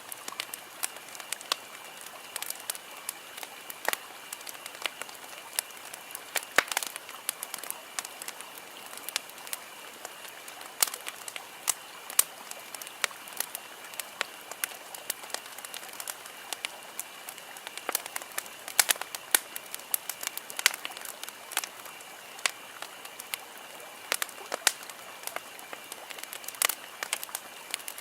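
Wood campfire crackling: irregular sharp pops and snaps, several a second, over a faint steady high-pitched background tone.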